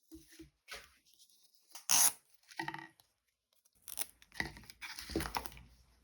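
Packaging being torn open and crinkled by hand during an unboxing, in several short bursts. The loudest comes about two seconds in, and a run of rustling follows near the end.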